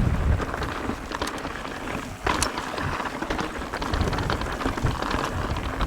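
Mountain bike rolling over rough, rocky singletrack: tyres crunching on gravel with many small clicks and rattles. Wind buffets the camera microphone in irregular low gusts.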